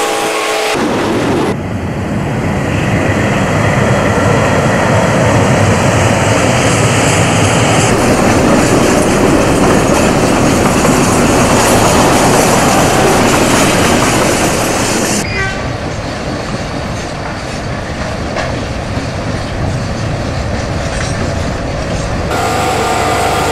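Trains passing close by on the rails, a dense, steady rush of wheel and rail noise cut together from several takes, with abrupt changes about 1.5, 15 and 22 seconds in. A steady pitched drone is heard at the start and again near the end.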